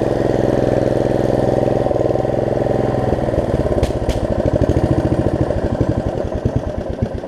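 Snapper rear-engine riding mower's engine running steadily, then from about three seconds in slowing down, its separate firing beats becoming audible as it winds down.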